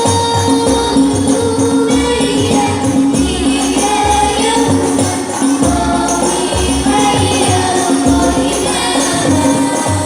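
Banjari music: a group of voices singing a sholawat melody over a fast, interlocking pattern of rebana frame-drum strokes.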